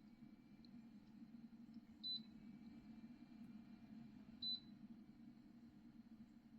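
Two short, high electronic beeps about two and a half seconds apart, over a faint steady low hum.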